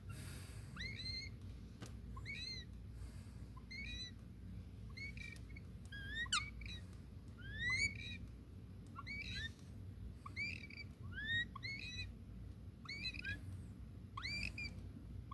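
Two nestling woodpeckers, only a few days old with eyes still closed, giving short high chirps over and over, about one a second and sometimes two close together, each sweeping up in pitch.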